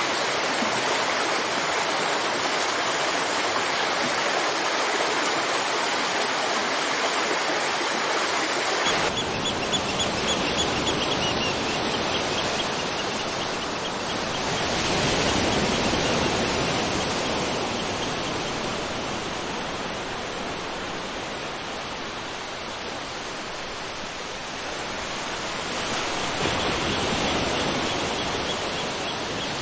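Waterfall and stream water rushing, a steady dense noise. About nine seconds in the sound changes abruptly to a fuller, deeper rush, and it swells again later.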